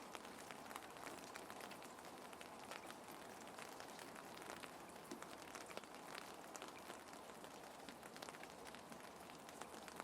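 Gentle rain: a steady soft patter with many small drop ticks scattered through it.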